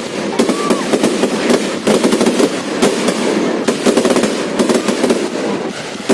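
Fireworks crackling: a dense, continuous run of sharp pops, many a second, easing slightly near the end.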